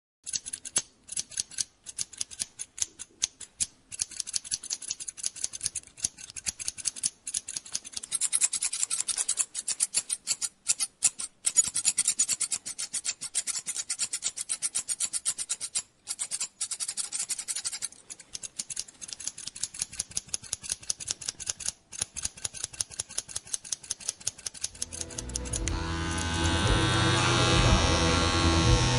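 Barber's scissors snipping hair in a fast, even run of many cuts a second, with a few short pauses. About 25 s in, electric hair clippers switch on and buzz steadily.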